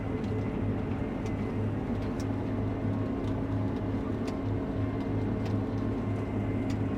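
Steady drone of a Case IH Axial-Flow combine running at harvest, with a few faint ticks over it.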